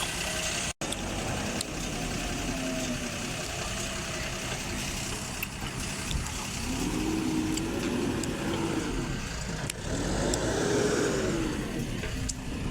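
Heavy diesel engine of a loaded tractor or backhoe loader running under load. In the second half it is revved up and back down twice, as a stuck vehicle is worked free.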